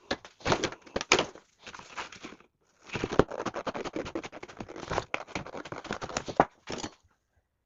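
A cardboard template scraping, crackling and crinkling as it is handled and pressed against the car's body panel for a test fit, in two stretches of quick rustles and taps. It stops about a second before the end.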